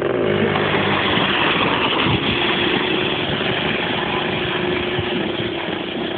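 Yamaha Blaster's single-cylinder two-stroke quad engine running; its pitch falls in the first second, then it holds steady under a loud rushing noise.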